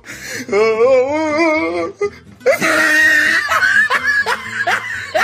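Meme sound-effect clips: a held note that wavers with strong vibrato for about a second and a half, then, after a short break, loud laughter in quick repeated bursts.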